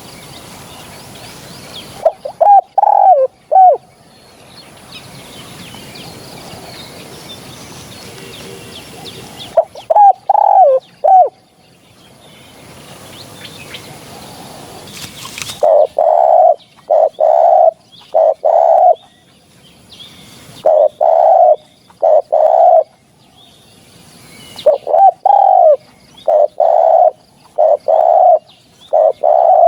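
Spotted dove cooing loudly in short repeated phrases, the calls coming closer together in the second half. Used as a lure call for hunting spotted doves. Faint chirps of other birds sound between the phrases.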